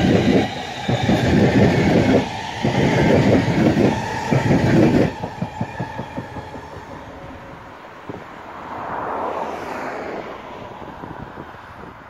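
ScotRail electric passenger train passing at speed. Its wheels clatter in regular loud surges over a steady whine for about five seconds, and then the sound fades as the train draws away, with a brief swell of noise around nine seconds in.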